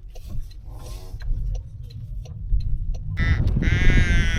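Low steady rumble of a car driving on the road. About three seconds in, a louder high wavering pitched sound comes in over it.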